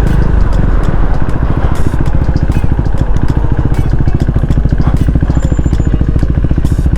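Motorcycle engine running steadily under way, a constant pulsing engine note.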